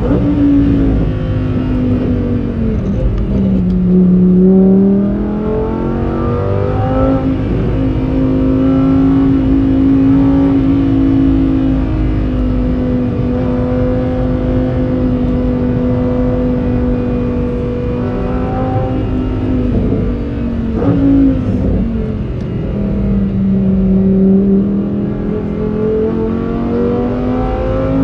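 Lamborghini Huracán Performante's naturally aspirated V10 running on track through its stock exhaust. The engine note drops about three seconds in and rises again, holds a steady pitch for about ten seconds, then drops again a little past twenty seconds and climbs once more near the end.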